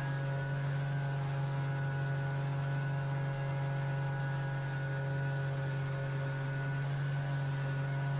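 Steady drone of a jet boat's outboard motor running at constant speed, an even hum with no change in pitch.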